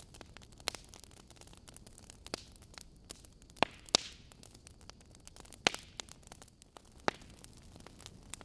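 Wood fire burning in a fireplace, burning logs crackling: a low hiss with irregular sharp pops, the loudest about three and a half to four seconds in, near six seconds and near seven seconds.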